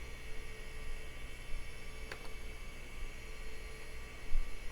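Steady electrical hum with faint high whining tones from the running retro PC, and one faint click about two seconds in.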